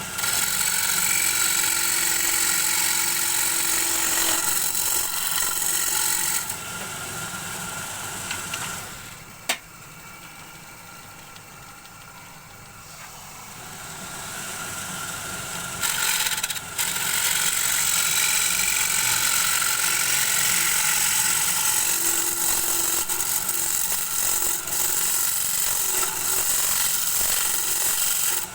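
Wood lathe turning a bowl blank, with a turning tool cutting the spinning wood in a loud, steady scraping hiss. The cutting stops a few seconds in, a sharp click follows, and the lathe runs on quieter until the tool goes back onto the wood past the halfway mark.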